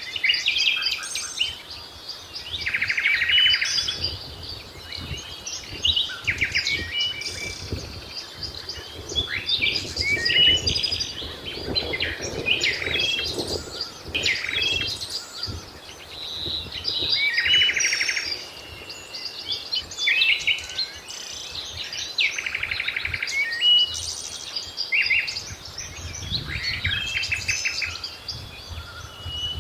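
Several wild birds singing and calling over one another: short chirps, whistled notes and rapid trills that come back every few seconds, over a faint outdoor rumble.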